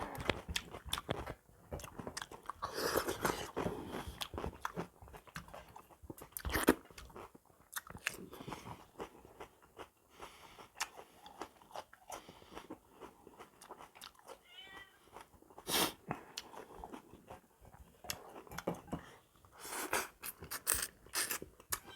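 Close mouth sounds of eating a meal of buffalo trotters with rice and raw vegetables: irregular chewing, biting and crunching with scattered clicks and smacks, a few bites louder than the rest.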